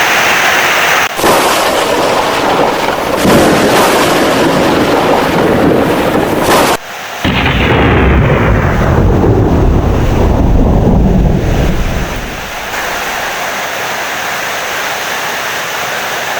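Heavy rain with thunder. About seven seconds in a deep, rolling thunder rumble starts, then dies away over about five seconds and leaves a softer, steady rain. Before the rumble the sound breaks off abruptly twice.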